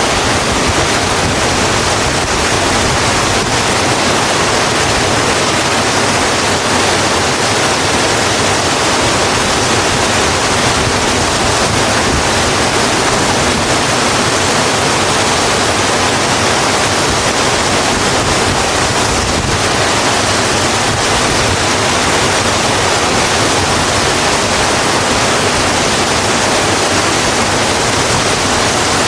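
Steady, heavy rain falling, an even hiss with no breaks or changes.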